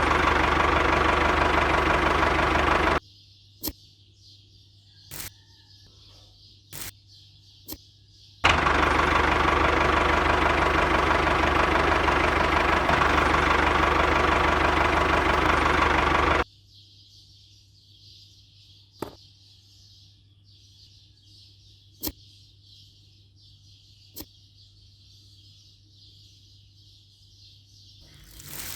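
A small motor runs steadily and loudly, stops abruptly about three seconds in, starts again abruptly about eight and a half seconds in, and runs about eight more seconds before cutting off suddenly. In the quiet gaps there are a few sharp clicks over a low steady hum.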